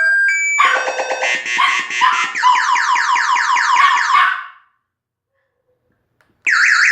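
Motorcycle anti-theft alarm siren cycling through its tone patterns: a steady two-tone, then a fast rapid beeping, then a run of quick falling chirps about four a second. It cuts off suddenly about four and a half seconds in, and a warbling tone starts near the end.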